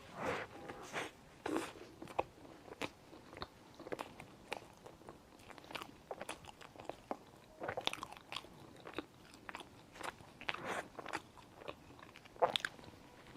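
Close-miked eating: irregular biting and chewing with sharp wet mouth clicks and smacks.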